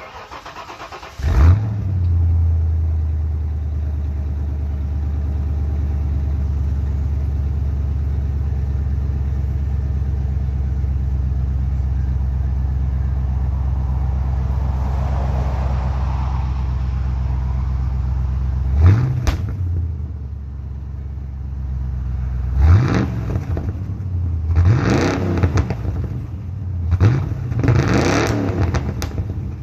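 Ford Mustang 5.0 V8 with the mufflers removed and otherwise stock exhaust, starting about a second in with a quick flare, then idling steadily. A single throttle blip comes near two-thirds of the way, then a series of sharp revs near the end.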